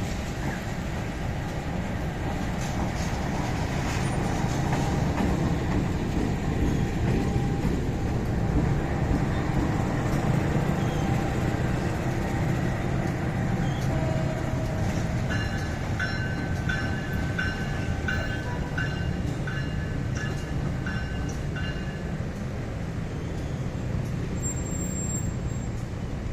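Steady low rumble of heavy vehicle traffic, with a run of about ten short, evenly spaced electronic beeps in the middle of it.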